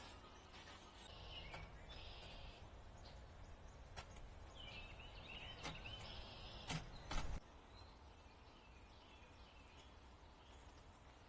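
Faint backyard songbirds chirping in short bouts, with a few sharp knocks, the loudest about seven seconds in, over a low outdoor rumble.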